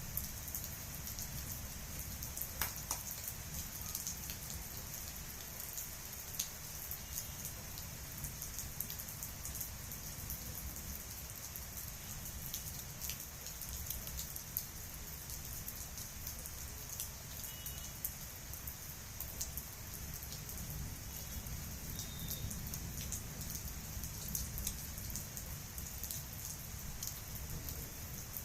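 Steady monsoon rain falling, with many individual drops striking surfaces as scattered sharp ticks over the hiss.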